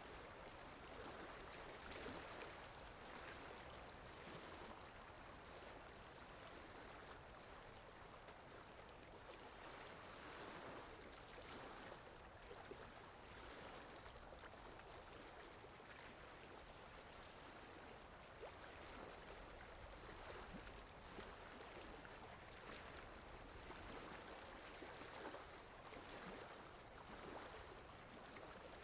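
Faint, steady rain, a constant even patter of many small drops with no pauses.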